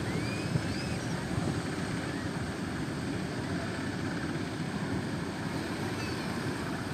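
Strong wind rushing over the microphone, a steady low rumble, with faint high whistling glides in the first second or so.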